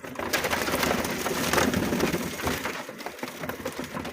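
Ducks eating breakfast cereal: a dense, rapid clatter of bills pecking and crunching the flakes.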